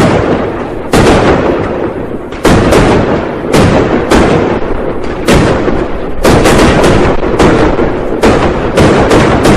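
New Year firecrackers going off in a dense series of loud bangs, roughly one every half second to a second, each trailing off in a long echoing rumble.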